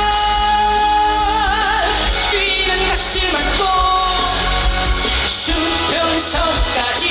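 Live song performance: a male singer's voice over a loud rock-style backing track. A long held note goes into vibrato about a second and a half in, followed by shorter melodic phrases.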